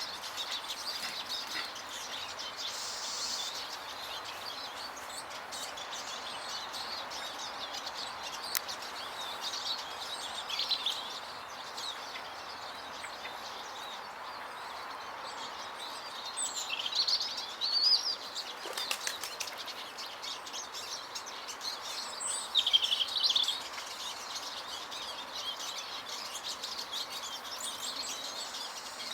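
Small garden birds at the feeders chirping and twittering. Three louder flurries of calls come about a third, a little over halfway and three-quarters of the way through, over steady background noise.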